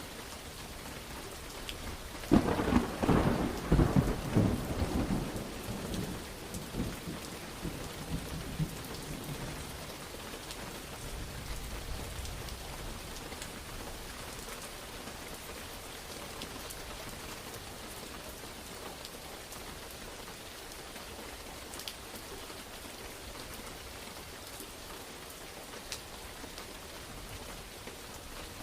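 Steady rain falling, with a sharp crack of thunder a couple of seconds in that rolls and rumbles away over the next several seconds before the rain carries on alone.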